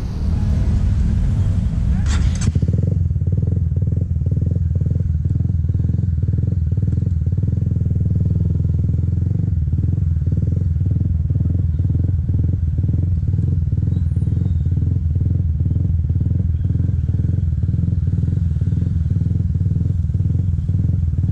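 Motorcycle engine idling steadily with an even pulsing beat. A rush of hissing noise cuts off about two and a half seconds in.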